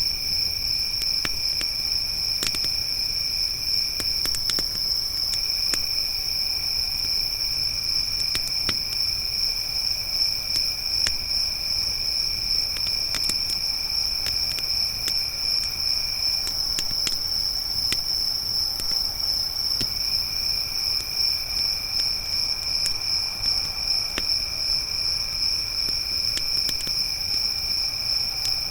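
Crickets trilling without a break: one high steady trill and a lower one that stops twice for a few seconds. Scattered small crackles and pops of a wood campfire sound throughout.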